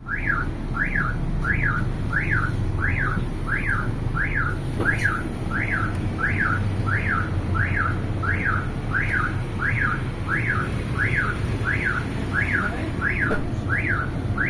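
An electronic vehicle alarm siren wailing, each tone sweeping up and down about three times every two seconds without a break, over a steady low rumble.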